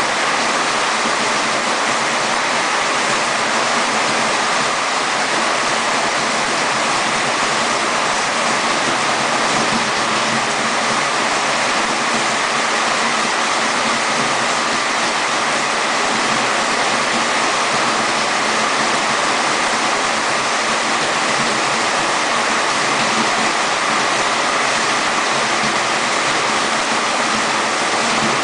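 Steady, loud rush of water in a heavy rainstorm, unbroken and unchanging throughout.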